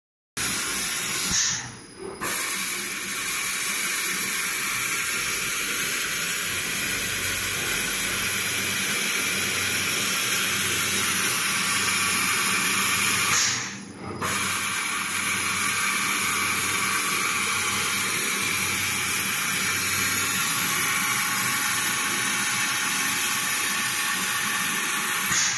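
JC-1600A single-axis CNC roll-cutting machine running, a steady hissing machine noise with faint steady tones in it. It breaks off briefly twice, about a second and a half in and again about halfway through.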